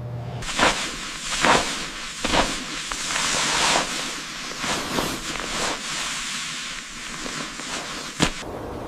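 A steady high hiss with irregular sharp crackles and pops through it, the sharpest pop about eight seconds in.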